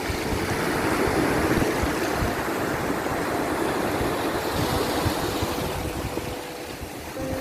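Sea waves rushing on a shore, a dense wash of surf that swells in the first couple of seconds and eases off near the end, with a few faint held tones beneath.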